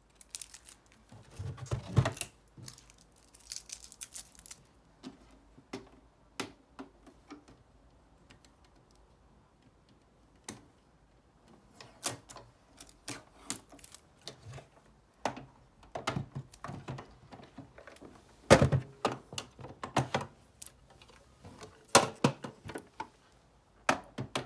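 Irregular clicks, taps and knocks of a plastic-bodied Brother NV180 sewing machine and its parts being unpacked and handled, with a heavier thump about eighteen seconds in.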